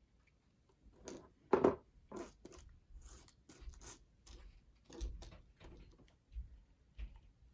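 Jewellery pliers working small sterling silver jump rings: an irregular run of small metal clicks and scrapes, the loudest a little over a second and a half in.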